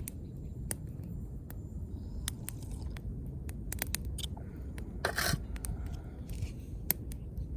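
Wood fire crackling, with scattered sharp pops over a steady low rumble, and one short scrape about five seconds in.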